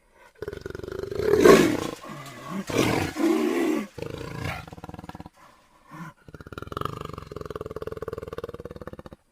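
Jaguar roaring and growling: a few loud calls in the first four seconds, then after a short pause a long, rasping growl that cuts off just before the end.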